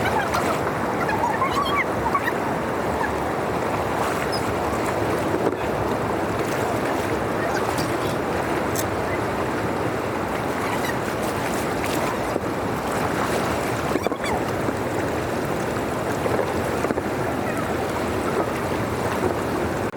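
Steady, even rush of flowing water, such as rain-swollen water pouring through a drainage channel.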